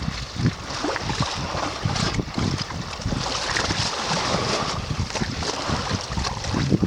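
Wind buffeting the microphone with irregular low thumps, over the wash of sea waves on the shore.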